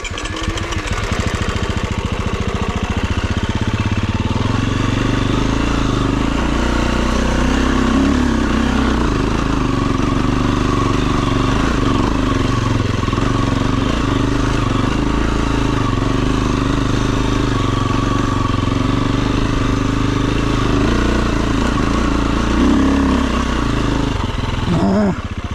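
Dirt bike engine running steadily at fairly even revs, with small rises and falls in pitch.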